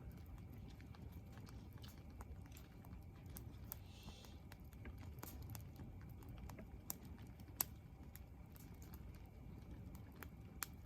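Wood campfire crackling faintly, with sparse irregular pops and ticks and one louder pop about two-thirds of the way in.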